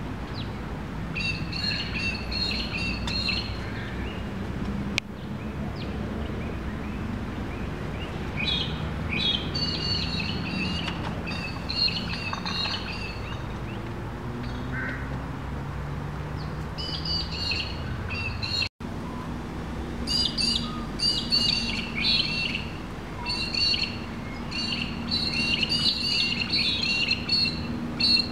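Birds chirping in repeated bouts of short, quick calls that come and go, busiest in the last third, over a steady low hum. The sound drops out for an instant about two-thirds of the way through.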